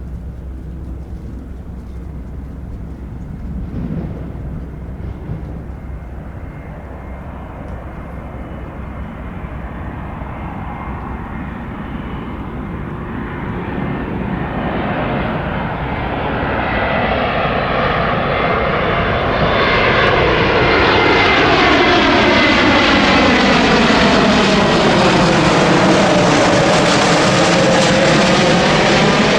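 Airbus A321neo jet airliner on approach to land, its Pratt & Whitney geared turbofan engines growing steadily louder as it draws near. In the second half the rush is loudest, with a sweeping, phasing tone as it passes close by and a faint high whine.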